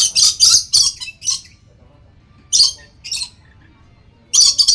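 Lory (nuri parrot) squawking: a quick run of high, harsh calls in the first second and a half, single calls about two and a half and three seconds in, and another short run near the end.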